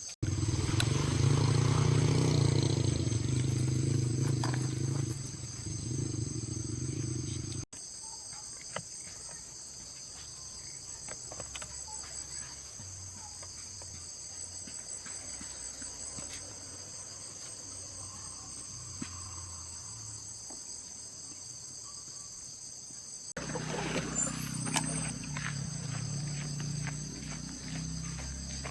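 Small petrol engine of an old mower running steadily, with crickets chirping throughout. The engine sound stops abruptly about eight seconds in, leaving only the crickets and a few faint clicks, and returns suddenly near the end.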